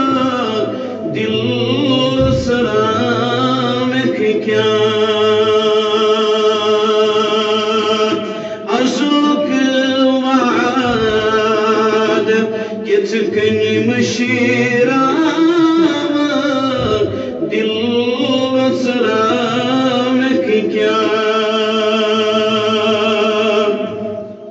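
A man chanting a naat, a devotional poem in praise of the Prophet, solo in a slow, drawn-out voice. The notes are long and held with slight wobbles, in phrases a few seconds long with short breaks between them, and the voice fades near the end.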